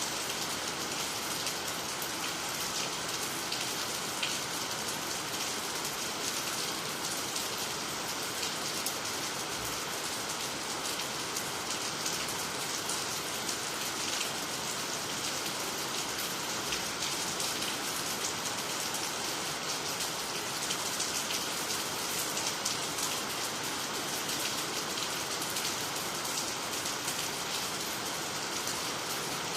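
Steady rain falling on water, nearby trees and the ground, an even hiss of many fine drops.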